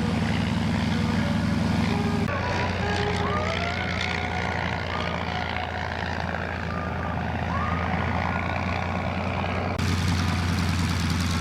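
Small piston-engine propeller airplane droning steadily. The sound changes abruptly about two seconds in and again near the end. Faint rising and falling whistles are heard in the middle stretch.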